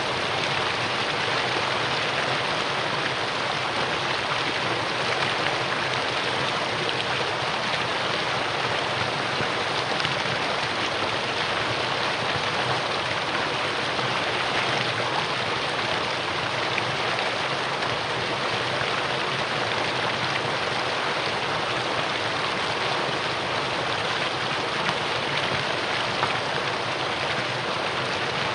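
Mountain valley stream flowing: a steady, even rush of water with no breaks.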